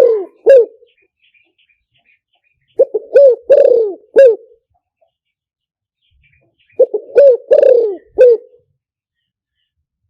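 Spotted dove cooing in phrases of several low coos. One phrase ends just as the sound begins, then two full phrases follow about four seconds apart. It is a decoy call, played to lure wild spotted doves into a trap.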